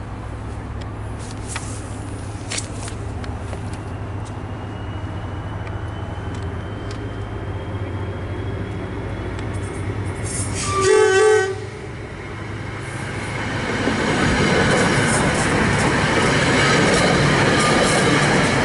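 NJ Transit push-pull commuter train approaching with a steady low rumble, its cab car sounding the horn in one short blast about eleven seconds in. Then the train passes close by, the wheel and rail noise rising and staying loud.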